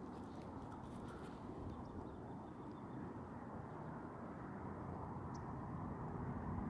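Faint, steady outdoor background noise with a few faint high ticks, and no clear single event.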